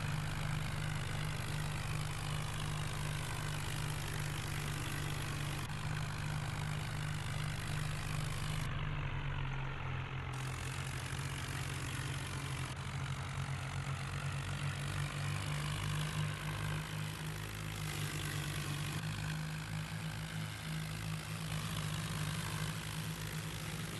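Tractor engine idling steadily, a low, even running sound.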